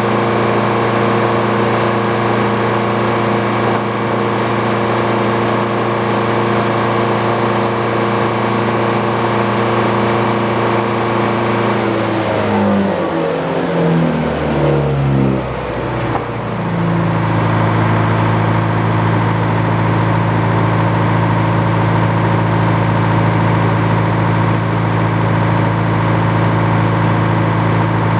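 Engine running steadily. About twelve seconds in its pitch falls over a few seconds, and it settles at a lower steady speed, with a faint high whine added.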